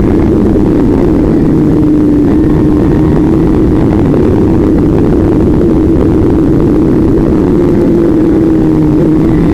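A vehicle engine running at fairly steady revs under a heavy, constant low rumble, its pitch drifting slightly up and down.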